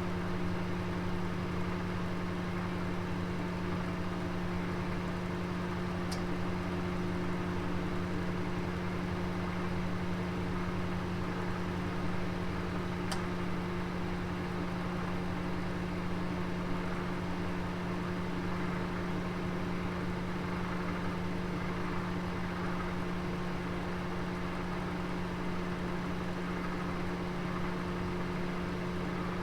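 Oven running with a roast inside: a steady hum with a hiss of moving air, and two faint ticks several seconds apart.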